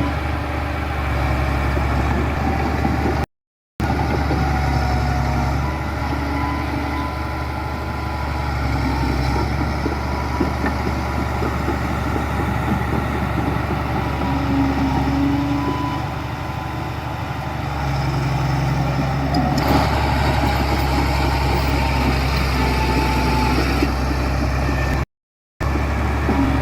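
Engines of heavy earthmoving machinery running steadily with a constant low hum. The sound cuts out briefly twice.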